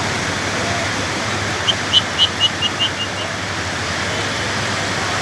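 Rushing floodwater of a swollen river, a steady heavy roar of water. About two seconds in, a quick run of about eight short high chirps, fading as they go.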